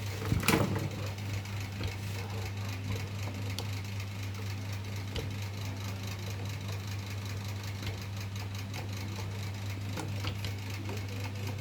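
Table fan's electric motor running with a steady, even hum. A single knock sounds about half a second in.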